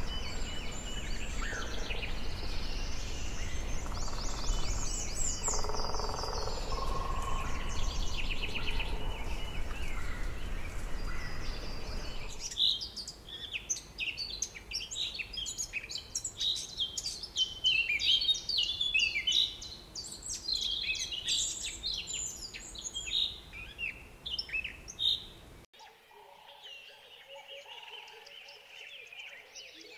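Tropical forest birds chirping and calling over a steady background hiss. About 12 seconds in, the sound changes abruptly to a dense chorus of quick, high chirps. Near the end it turns quieter, with a few chirps over steady lower tones.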